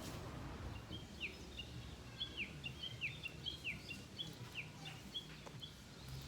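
A bird calling over and over, short high notes each ending in a quick downward slur, about two a second, starting about a second in and stopping shortly before the end.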